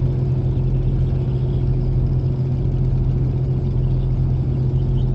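A boat's diesel engine running at a steady idle: a loud, even low hum with no change in speed.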